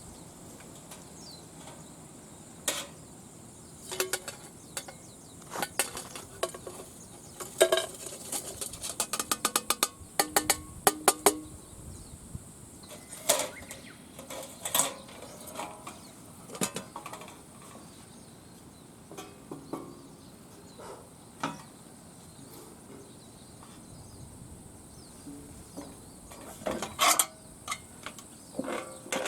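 Metal parts of a homemade folding fire pit clinking and knocking as they are handled, with a quick run of small clicks in the middle and another cluster near the end. Crickets chirp steadily in the background.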